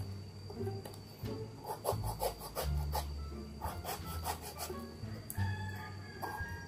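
Kitchen knife cutting through the thick rind of a pomelo, a run of short, irregular scraping strokes as the peel is shaved off in strips.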